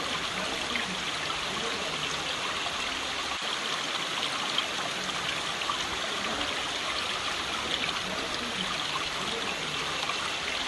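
Running water of a stream: a steady rushing and trickling, with small splashes here and there.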